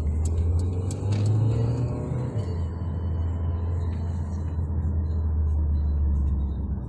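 Mercedes-Benz GLA 200 driving, heard from inside the cabin: a steady low engine and road drone that swells and rises a little about a second in, as the car picks up speed, then settles.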